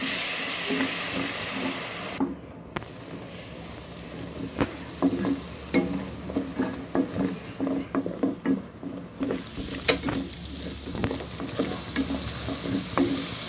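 A ground paste of melon seeds and tomato sizzling in hot oil in a pan while a spatula stirs it, with frequent short clicks and scrapes of the spatula against the pan. The sizzle dips twice, briefly, around two seconds in and again near the middle.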